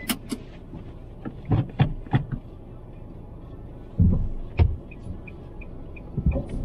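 Handling noises of getting into a car: clicks and knocks, with a heavy door-like thump about four seconds in. From about five seconds on, a faint high warning chime repeats about three times a second.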